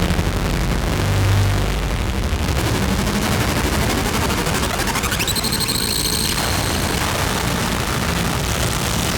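Harsh noise drone from a Novation Circuit synthesizer running the Howl preset pack: a dense, rapidly pulsing wall of noise over a low hum. About five seconds in, a high whistling tone sweeps up and holds for about a second before cutting out.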